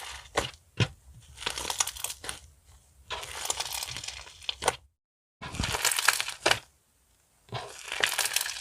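Liquid slime mixed with foaming hand-wash being squeezed and worked by hand, crackling with many small popping bubbles. It comes in about five bursts of roughly a second each, with sharp pops between them.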